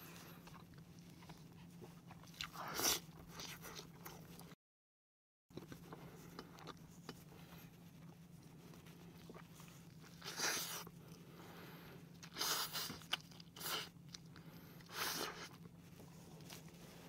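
A person biting and chewing pieces of whole fried chicken dipped in salad dressing, heard close up. A few short, wet crunching chews are spread out: one about three seconds in and a cluster of four or five in the second half.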